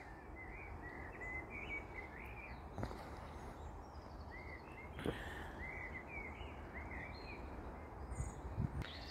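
Small birds chirping and singing, many short repeated chirps over a steady low background hum, with a few faint knocks.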